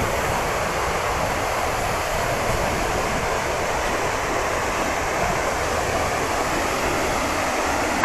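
Steady rush of water falling at Athirappilly Falls, a large waterfall on the Chalakudy River.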